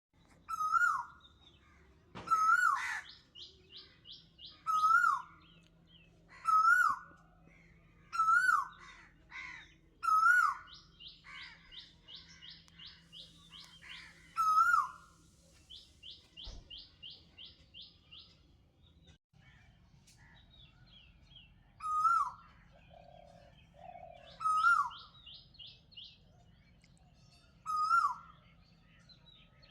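Birdsong: one bird repeats a short whistled call that rises and falls, about every two seconds, while others answer with quick, higher-pitched trills and chirps.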